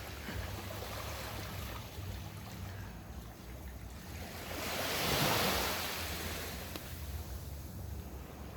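Sea waves washing onto the beach: a steady surf wash with one wave swelling up and breaking about five seconds in, over a low steady rumble.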